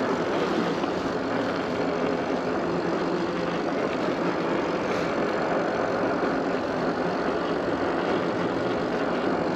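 Steady rush of wind and road noise from a SUPER73 electric bike riding along, with no change through the stretch.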